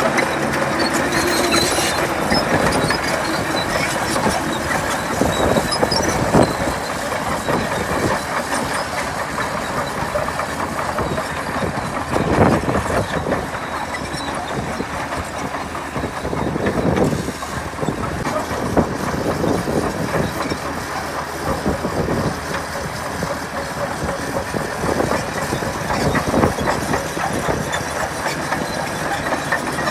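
Komatsu D61PX crawler bulldozer working, its diesel engine running under a continuous clatter of steel track links, with irregular metallic clanks and a few louder surges.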